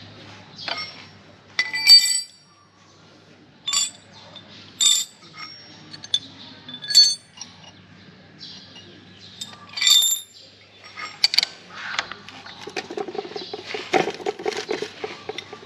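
Metal sockets clinking as a socket set is sorted through and sizes are tried for the bolt, a smaller socket being sought after the last one proved too big. Scattered sharp, separate clinks, several of them close together about two seconds in.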